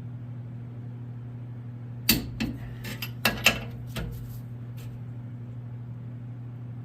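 Sharp metallic clicks and clinks of a wrench and socket on the rear leaf-spring U-bolt nuts during tightening, about six in quick succession a couple of seconds in, over a steady low hum.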